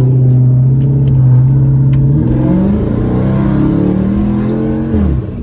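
Dodge Hellcat's supercharged V8 under hard throttle: the engine note holds steady, climbs in pitch about two seconds in, then falls away sharply near the end as the throttle is lifted.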